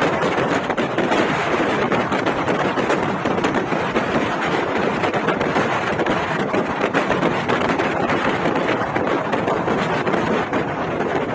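Steady rushing highway traffic and wind noise buffeting the microphone, with no distinct engine note.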